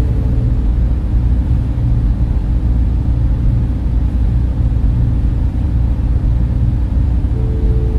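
Server room ambience: many cooling fans running in a steady low drone, with a few steady hum notes in it, a higher hum note coming in near the end.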